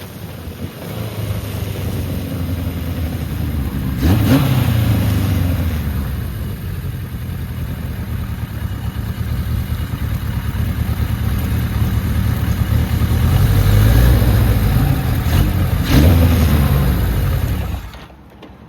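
1980 Kawasaki KZ1000 LTD's air-cooled inline-four engine running on the road, with revs rising sharply about four seconds in and again near the end, and wind rushing over the microphone. The sound drops away suddenly just before the end.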